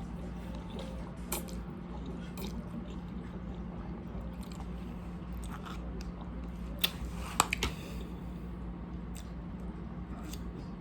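A person chewing and biting food close to the microphone, with a few sharp clicks about seven seconds in, over a steady low hum.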